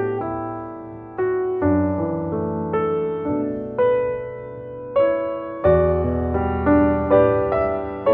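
Background music: a slow, gentle piano melody over bass notes, each note struck and then fading.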